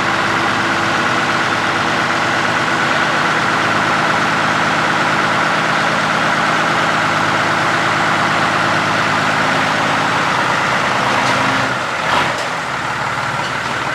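Old Mack diesel truck engine idling steadily after a restart, once it had been refuelled following a lost prime. A little before the end there is a brief knock, and the engine settles to a lower, quieter idle.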